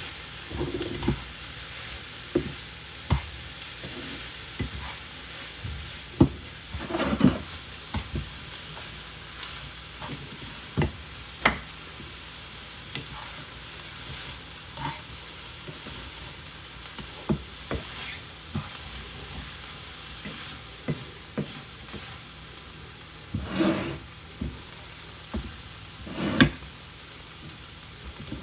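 Cauliflower fried rice sizzling in a pan while a spatula stirs it, with irregular sharp clicks of the utensil on the pan and a few longer scrapes.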